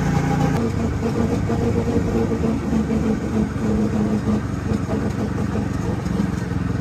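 Go-kart's small engine running steadily, its note shifting about half a second in.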